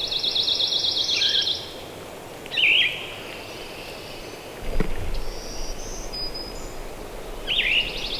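A songbird singing: a short slurred note followed by a fast, buzzy trill lasting about a second and a half, repeated three times. About five seconds in there is a single thump, followed by a low rumble.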